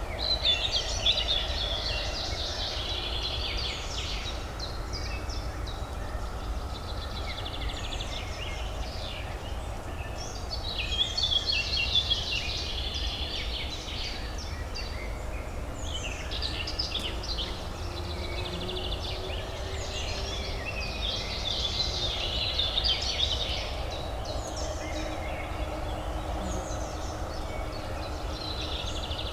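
Songbirds chirping and singing in recurring bursts over a steady low urban hum.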